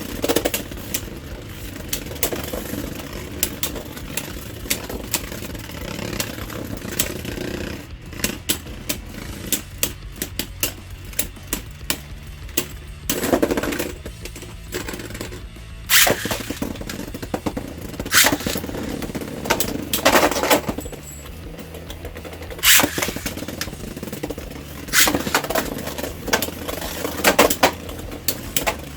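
Beyblade Burst tops (Storm Pegasis and Lightning L-Drago) spinning in a plastic stadium with a steady whirring hum. They clash again and again in sharp clacks, several of them loud. Background music plays underneath.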